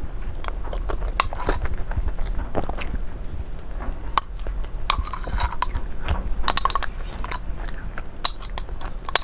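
A person biting and chewing food close to the microphone, with many short crackling clicks and crunches throughout.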